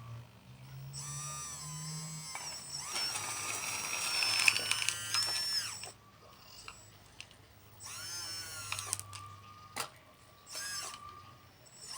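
Small electric motor of a radio-controlled construction model whining at a high pitch that slides up and down as it works, in a long spell and then a shorter one, with a few sharp clicks in between.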